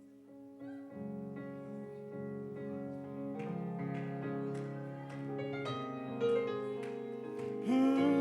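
Keyboard playing slow, sustained chords that build gradually in loudness. Near the end a voice comes in singing a held, wavering note.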